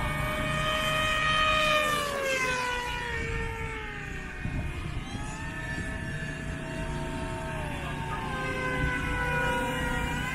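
Whine of electric motors and propellers on radio-controlled FPV aircraft flying overhead, its pitch sliding down and back up as the throttle changes. A steady low rumble runs underneath.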